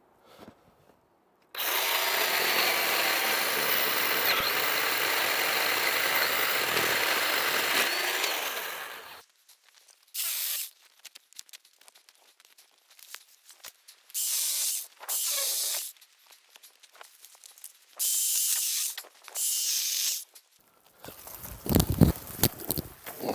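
Black and Decker 20V MAX LCS1020 cordless electric chainsaw cutting through fallen wood: one long run of about seven seconds, then five short bursts of the motor a few seconds apart. Some low thumps near the end.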